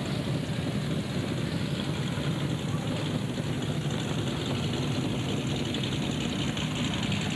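Race car engines idling steadily.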